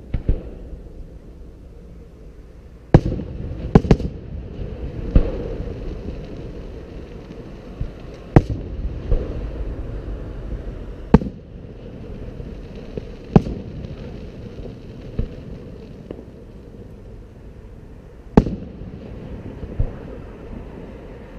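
Aerial fireworks shells bursting: sharp bangs every few seconds, including a quick double near the start, each trailing off into a low rumbling echo.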